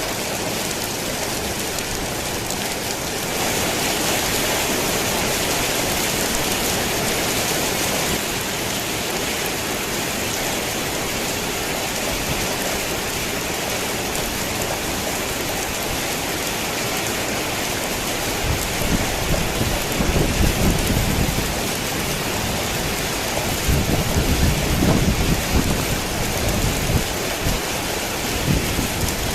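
Rain falling steadily on a tin roof, getting a little heavier about three seconds in. Thunder rumbles low twice in the second half.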